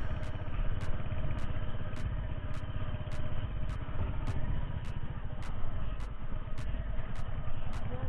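Motorcycle engine running at low speed with a steady low rumble, the bike being ridden slowly and carefully over an icy, snowy mountain road.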